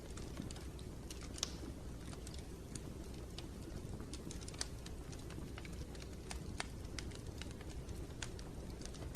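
Wood fire crackling in a fireplace: irregular sharp pops and snaps over a steady low rumble of the flames, one louder pop about a second and a half in.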